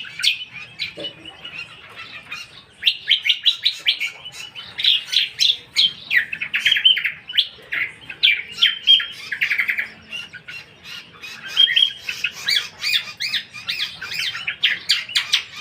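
Cucak kombo songbird singing in fast, chattering runs of sharp notes, with short breaks between the runs.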